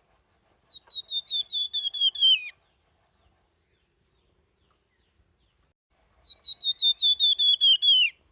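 Flamboyan songbird singing two flute-like whistled phrases, each a quick run of about ten repeated high notes that ends in a downward slur.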